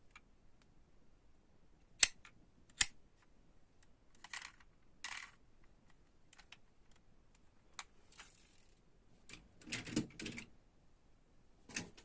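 Handling of diecast toy cars and their packaging: two sharp clicks about two and three seconds in, short rustles around four to five seconds and again near ten seconds, and another click near the end.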